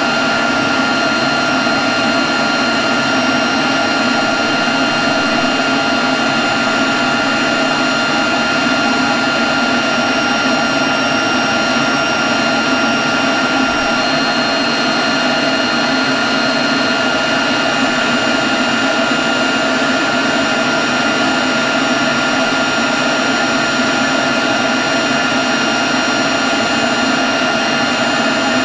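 Leaf blower running at a steady speed: a constant rush of air with a high whine over it.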